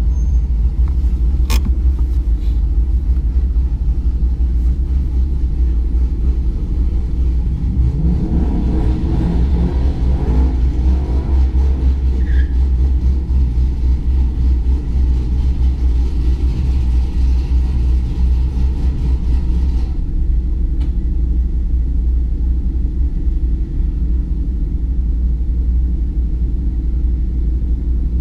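Ford Mustang GT's 5.0 V8 idling with a steady low rumble, heard from inside the cabin. About eight seconds in, an engine revs up, rising in pitch over a few seconds, then settles back.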